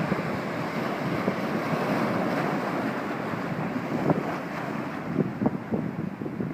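Wind buffeting the microphone over the rush of waves, swelling in the first couple of seconds and easing off, with gusty low thumps near the end.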